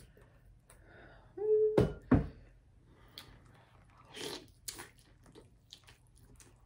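Close-up eating sounds: lobster tail meat being bitten and chewed, with small wet clicks and smacks. About one and a half seconds in there is a short hum, followed by two sharp knocks.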